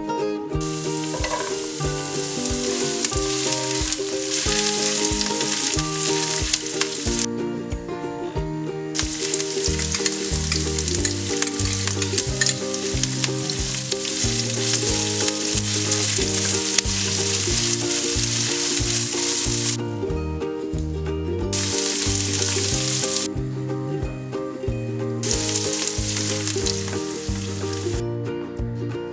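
Sliced onions frying in oil in a frying pan, a steady sizzle that cuts out and comes back several times, with a spatula stirring. Light background music plays throughout.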